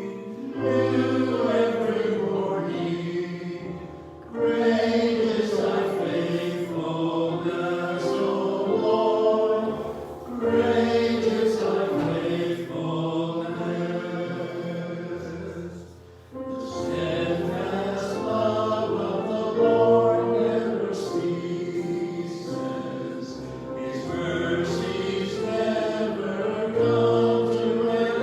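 Choral singing of a hymn with instrumental accompaniment, with sustained low bass notes under the voices. The music moves in phrases of about six seconds, each with a short dip between.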